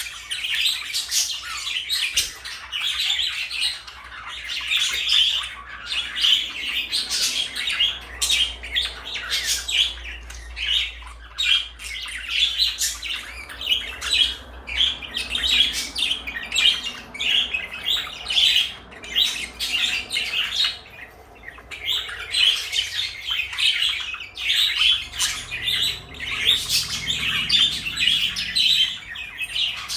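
Pet parakeets chattering and chirping without a break, a dense run of quick high chirps and clicks, with a short lull about twenty seconds in.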